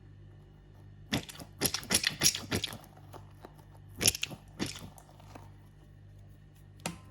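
Crisp crackling and crunching in two bursts, about a second in and about four seconds in, then a single sharp snap near the end.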